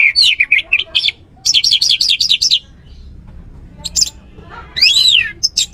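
Orange-headed thrush singing: quick phrases of rapid, sharply down-slurred whistled notes, with a short pause in the middle and an arched, rising-then-falling note near the end.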